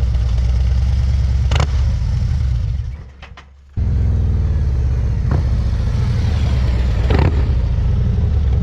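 Harley-Davidson Road Glide's Milwaukee-Eight 117 V-twin running loud through Rinehart DBX40 4-inch slip-on mufflers, a deep low rumble. It falls away about three seconds in and comes back abruptly under a second later.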